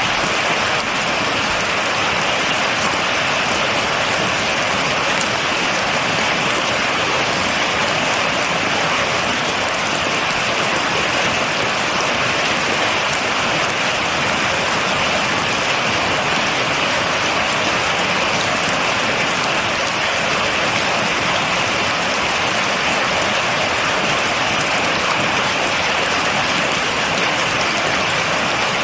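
Rain falling steadily, an even hiss with the fine patter of many drops.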